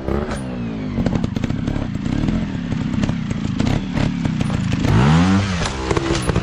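Dirt bike engine running at low revs with a choppy, uneven note and scattered clattering knocks, then revving up once and dropping back about five seconds in.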